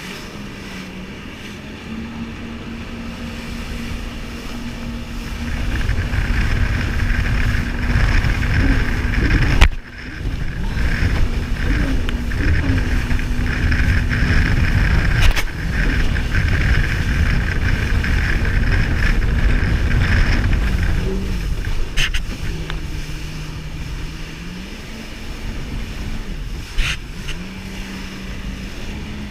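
Jet ski engine running at a steady cruising pitch under a heavy low rush that builds about six seconds in. The revs drop for a few seconds past the twenty-second mark and pick up again. A few short sharp knocks sound over it.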